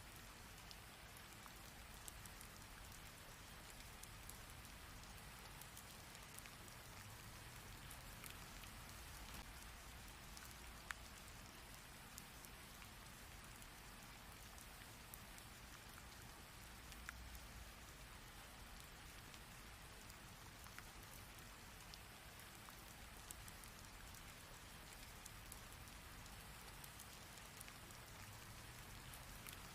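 Rain falling steadily as an even hiss, with scattered sharp ticks of individual drops hitting a surface and one louder drop about eleven seconds in.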